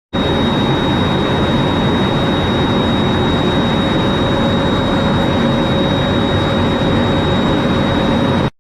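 Jet aircraft engine running steadily: an even rush of noise with a constant high-pitched whine on top, with no rise or fall in level. It stops abruptly at a cut near the end.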